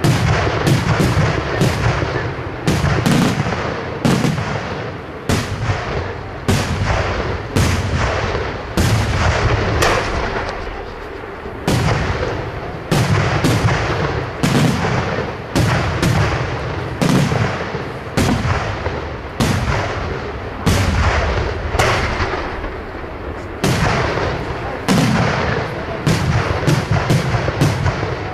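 Aerial firework shells bursting one after another, about one or two sharp reports a second, each trailing off in echo over a low rumble.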